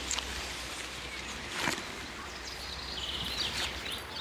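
Outdoor ambience: a steady background rush with birds chirping a few times, mostly in the second half.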